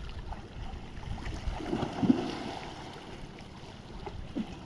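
Seawater sloshing and splashing with wind on the microphone, and one louder splash about two seconds in.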